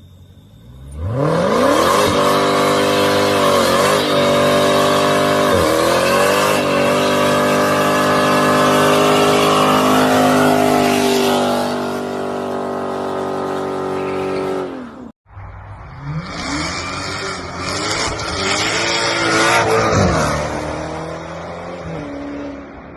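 Dodge Challenger SRT's supercharged V8 accelerating hard: revs climb, drop and climb again at two upshifts, then stay high for several seconds. After a sudden cut, a second run of revs rising and falling.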